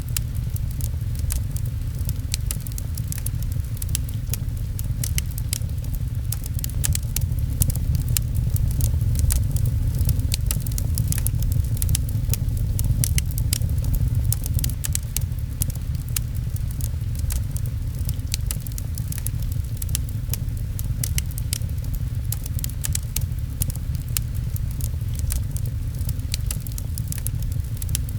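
Wood fire crackling in a fireplace, many small sharp pops and snaps over a steady low rumble, with rain pattering on a window.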